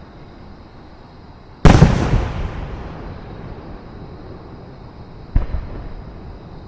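Aerial fireworks shells bursting: a loud boom about a second and a half in that rumbles away over a couple of seconds, then a smaller boom near the end.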